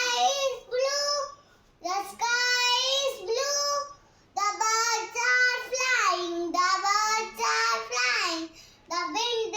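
A child singing a poem in a high voice, in phrases separated by short pauses.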